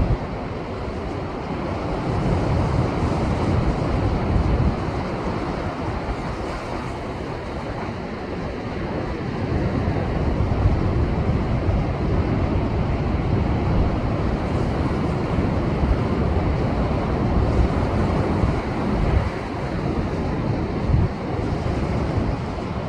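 Heavy post-typhoon surf breaking and washing against shoreline rocks: a continuous wash of noise that surges louder a couple of seconds in and again about ten seconds in, with wind rumbling on the microphone.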